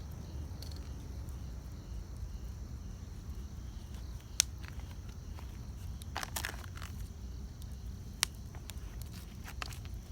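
Wood campfire crackling, with scattered small crackles, a burst of crackles about six seconds in and two sharp loud pops, one about four seconds in and one near eight seconds, over a low steady rumble.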